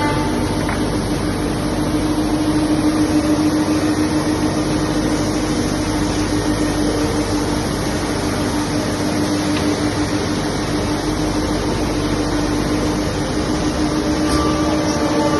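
CNC machine running with a steady hum and continuous machining noise.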